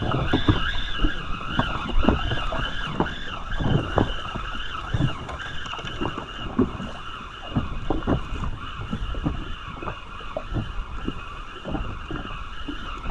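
Small boat on the sea: irregular slaps and knocks of water and handling against the hull, over a steady, slightly wavering whine.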